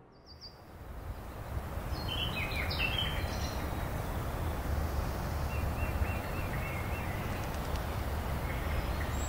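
Outdoor ambience fading in over the first two seconds: a steady noise bed with small birds chirping. There is a cluster of quick chirps about two to three seconds in, and a run of short repeated chirps later.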